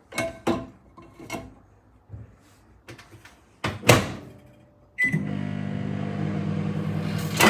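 Microwave oven being started: a few short clicks, a sharp knock about four seconds in, then a short beep and the oven's steady running hum with a buzz from about five seconds in.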